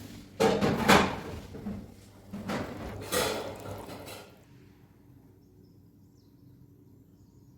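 Two short bursts of kitchen clatter in the first half, then quiet with a faint steady hum.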